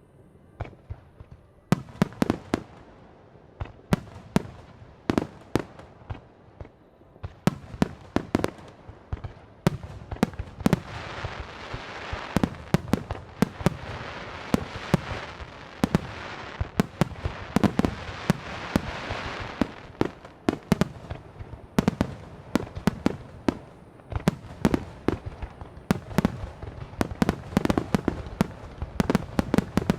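Aerial fireworks bursting overhead, a few scattered bangs at first, then a rapid barrage of dozens of booms with a crackling haze between them, thinning slightly near the end.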